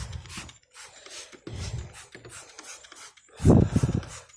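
Hand trigger spray bottle squirting over and over in short hissing spurts, soaking the work. A louder low thud or grunt comes about three and a half seconds in.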